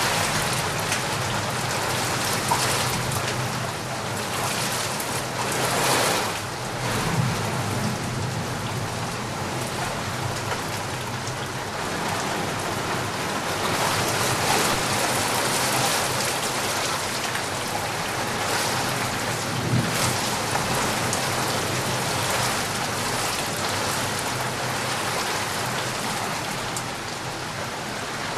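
Steady rain falling hard, with drops tapping outside a window. It swells into heavier gusts a few times, around a quarter of the way in and again about halfway through.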